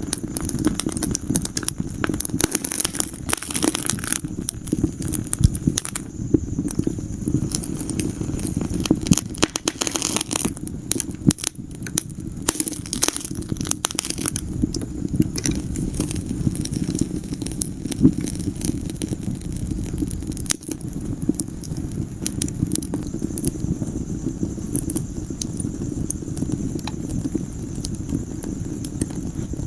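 Wood fire burning in a fireplace: a steady low rumble of flames with dense irregular crackling and occasional louder pops.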